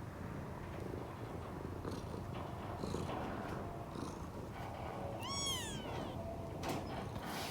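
A cat purring steadily, with a kitten giving one short, high-pitched meow about five seconds in.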